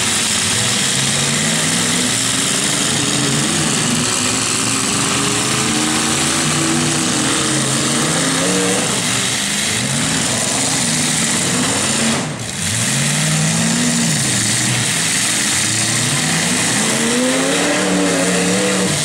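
Several pickup trucks' engines running hard in a demolition derby, their pitch rising and falling as the drivers rev and let off, over a constant loud din. The noise dips briefly about twelve seconds in.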